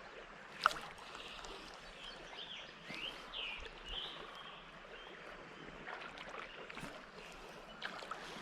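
Quiet creek ambience from a kayak: a faint steady wash of moving water with a few short bird chirps about three to four seconds in, and one sharp click a little under a second in.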